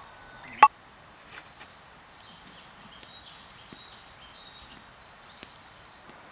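One ringing metallic knock on a Coleman kettle a little over half a second in, tapped to settle the grounds of boiled cowboy coffee. Then quiet outdoor air with faint high chirps.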